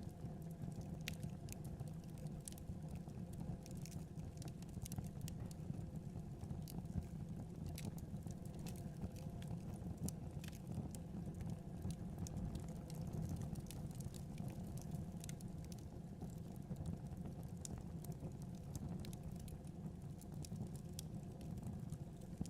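Wood fire burning in a fireplace: a steady low rumble of flames with frequent, irregular sharp crackles and pops of the burning wood.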